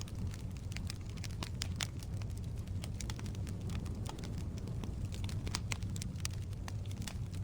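Firewood burning in a fireplace: a steady low rumble of the flames with frequent, irregular sharp crackles and pops from the wood.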